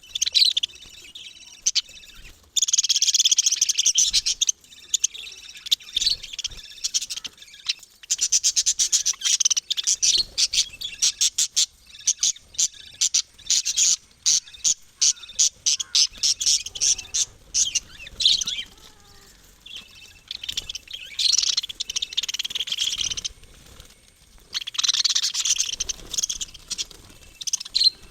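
Small pet parrots chirping in high-pitched bouts of rapid, shrill chatter, with short quieter lulls between the bouts.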